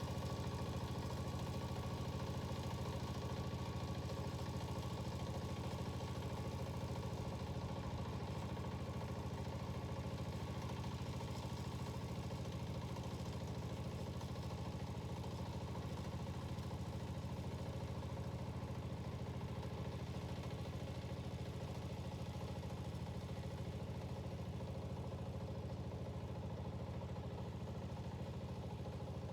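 Yanmar walk-behind tiller's single-cylinder diesel engine idling with a steady chug.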